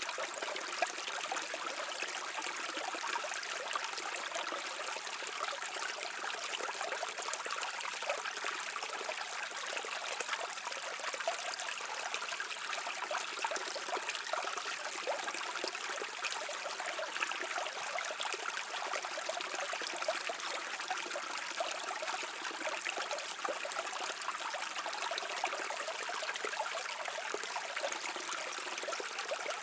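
Shallow stream flowing and trickling steadily over stones, a continuous splashing babble.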